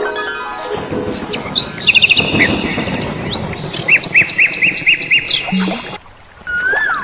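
Birds chirping in quick repeated calls, layered into a soft background music track that opens with a falling run of notes.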